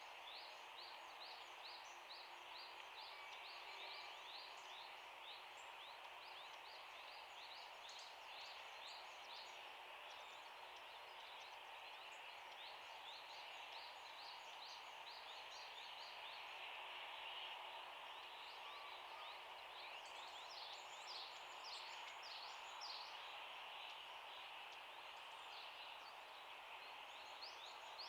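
Rapid, high, thin chirping of small songbirds, many short notes a second, over a faint steady outdoor hiss.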